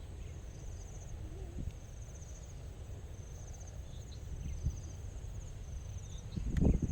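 Insects chirping in a high-pitched, evenly pulsed trill, repeated in phrases of about a second with short gaps, over a steady low rumble. A louder low rumbling sound rises near the end.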